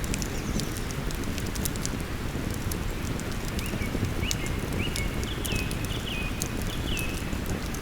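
Wood fire crackling with scattered sharp pops over the steady rush of a river. From about three and a half seconds in, a bird gives a short high call over and over, a little under two a second.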